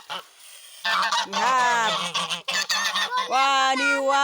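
Several geese honking loudly: repeated harsh honks from about a second in, then a long drawn-out honk near the end.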